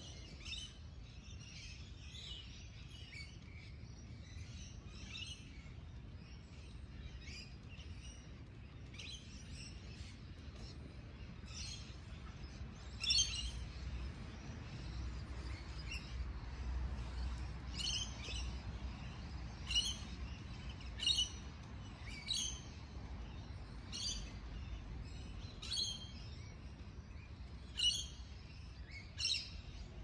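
Wild birds calling: soft, busy chirping at first, then loud short calls repeating about every one to two seconds through the second half.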